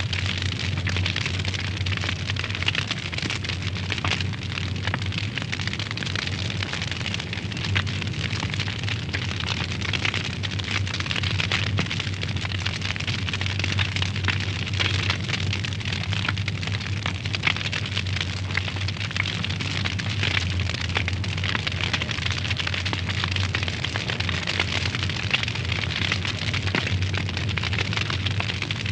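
Wood fire burning in a fireplace, crackling steadily with many small pops over a low, steady rumble.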